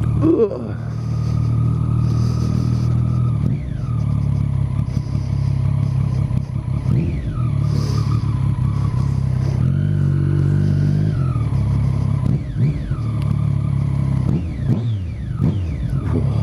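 Motorcycle engine running through an aftermarket Arrow exhaust while riding. The engine note holds steady for stretches and drops then picks up again several times as the revs change.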